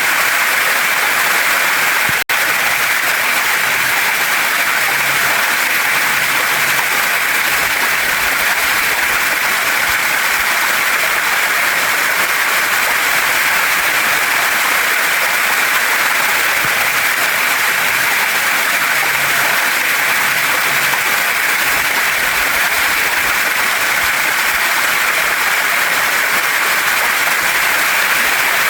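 Waterfall and mountain stream water rushing over rocks, a steady dense hiss. The sound cuts out for an instant about two seconds in.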